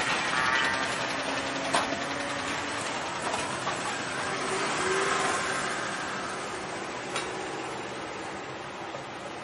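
Container freight train's wagons rolling away on the rails: a steady rumble with a few sharp wheel clicks, slowly fading as the train recedes.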